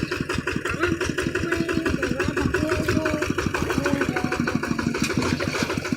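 Kubota RT155 single-cylinder diesel engine of a two-wheel hand tractor running steadily, at about nine firing pulses a second.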